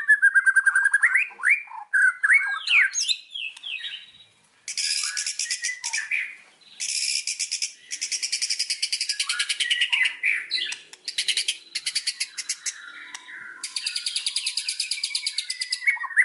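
White-rumped shama (murai batu) singing. It opens with clear, looping whistles, then moves into long runs of fast, buzzy, rattling trills broken by brief pauses.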